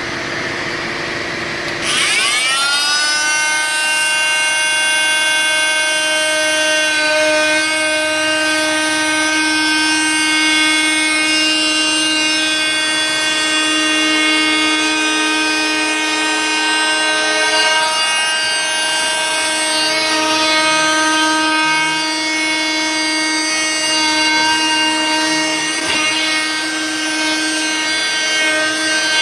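Sonicrafter oscillating multi-tool and shop vacuum running while drywall is cut out. A steady, high-pitched buzzing whine spins up about two seconds in and holds on with slight wavering under load.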